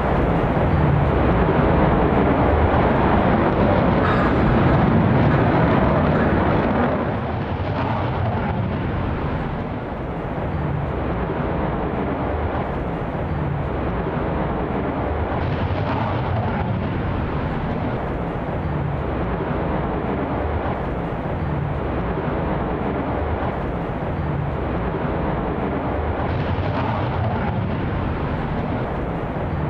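Lockheed Martin F-35A's single afterburning turbofan (Pratt & Whitney F135) roaring overhead, loudest for the first seven seconds or so, then easing to a steady distant jet rumble.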